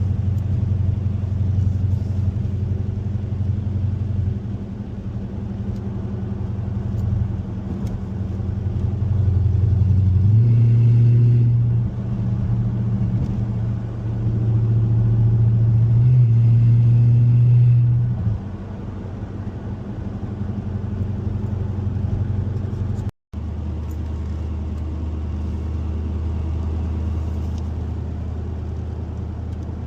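A car engine running at low revs, held twice at a higher, louder rev for a couple of seconds each, in clips of practice launches at a low launch rpm. It cuts out briefly about two-thirds of the way through, then resumes running steadily.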